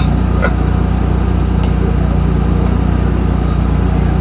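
An engine running steadily at idle, a low, even hum, with a couple of sharp clicks in the first two seconds.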